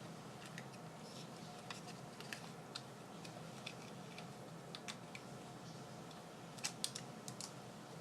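Scattered light clicks and taps of craft materials being handled on a work table, two slightly louder clicks near the end, over a faint steady room hum.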